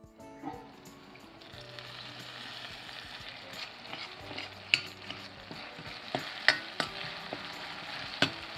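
Chopped tomatoes and dried red chillies sizzling in hot oil in a stainless steel tri-ply kadhai as a steel ladle stirs them, with a few sharp clinks of the ladle against the pan. The sizzle builds up over the first second or so as the tomatoes soften for the sambar tempering.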